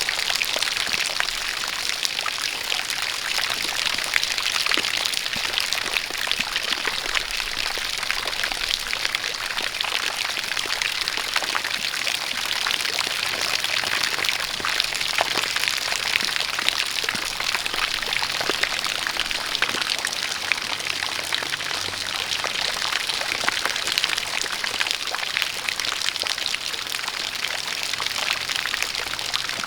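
Steady rain falling, with many small drop ticks, mixed with a stream of water pouring and splashing.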